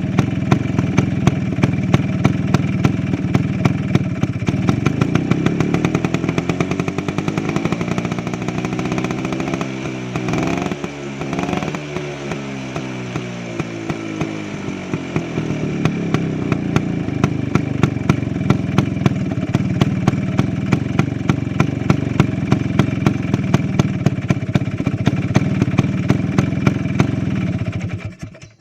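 Vespa Sprint Veloce's two-stroke single-cylinder engine running through a Polini Big Box expansion exhaust, on a ported cylinder with the stock 20/20 carburettor. It idles with a rapid even popping, is revved up and down a few times in the middle, settles back to idle, and cuts off near the end.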